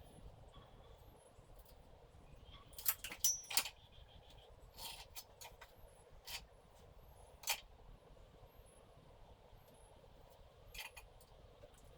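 Scattered sharp clicks and knocks of small hard objects being handled: a quick cluster about three seconds in, then single ones every second or two.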